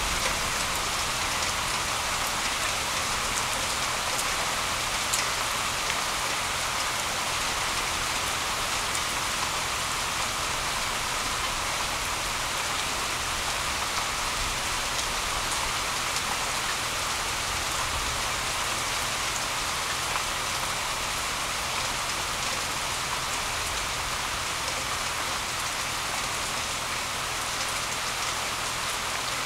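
Steady rain falling on grass, leaves and a wet road: an even hiss with now and then the sharper tick of a single drop.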